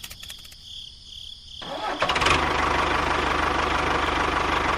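An engine starting about two seconds in, then running steadily with a fast, even low pulse.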